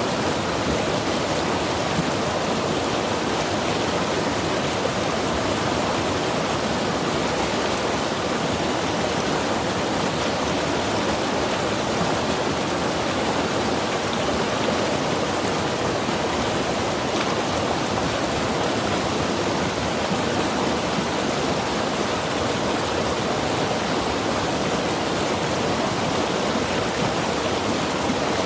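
Mountain river rushing steadily, an even wash of water noise with no change.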